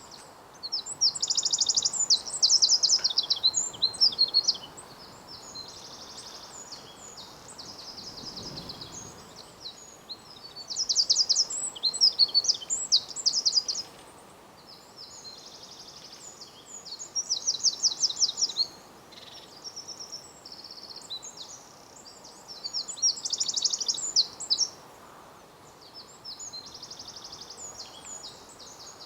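Songbird song: high, rapid trilled phrases of two to three seconds, repeated about six times, over a steady background hiss.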